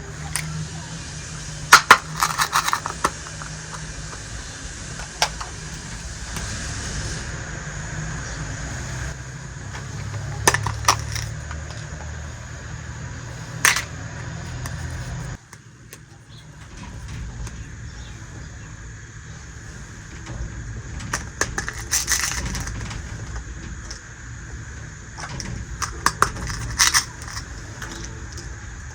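Small hard pieces of a miniature toy kitchen set clicking and clinking sharply now and then as they are handled, in clusters of a few quick clicks. A steady low hum runs underneath and drops abruptly about halfway through.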